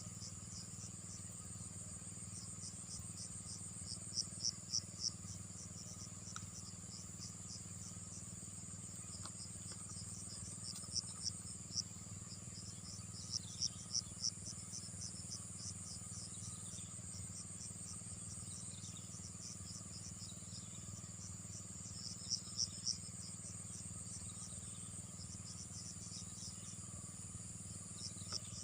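Insects, crickets or the like, trilling steadily and high-pitched, with louder rapid chirps breaking in in short runs about four, eleven, thirteen and twenty-two seconds in. A low steady hum runs underneath.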